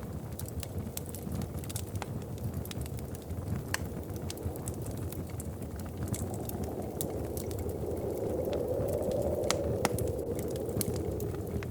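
Wood fire in a fireplace crackling, with scattered sharp pops over a steady low rumble of burning. About halfway through, a low wind gust swells up and eases off again near the end.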